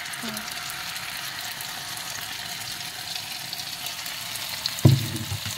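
Beaten egg and eggplant mixture sizzling and crackling as it fries in hot oil in a frying pan. A dull thump about five seconds in.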